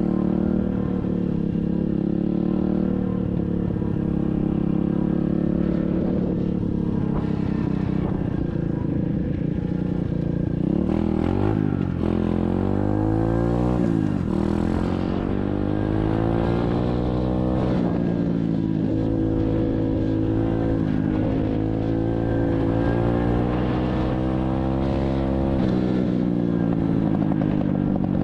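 SSR 125cc dirt bike's single-cylinder four-stroke engine running as it is ridden, the revs rising and falling several times, with the sharpest climbs and drops a little before the middle.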